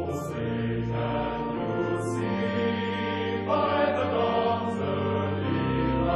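Choral music: voices sing long held chords that shift to a new chord every second or two.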